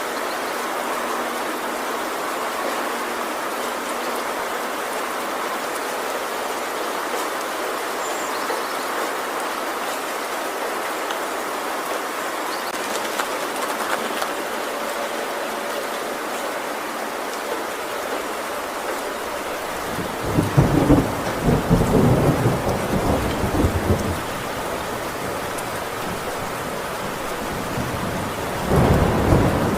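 Heavy rain drumming steadily on a metal roof, with a long roll of thunder about two-thirds of the way in and another starting near the end.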